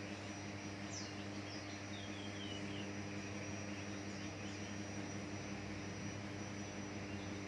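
A cucak ijo (green leafbird) gives a short run of quick falling chirps about a second in, faint over a steady low hum, hiss and a thin high steady tone.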